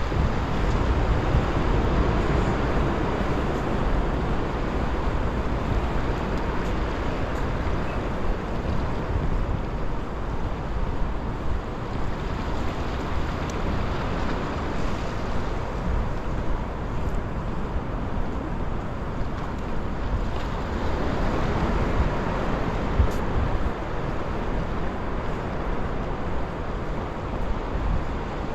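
Sea surf washing against a rock breakwater, a steady rushing that swells and eases, with wind buffeting the microphone.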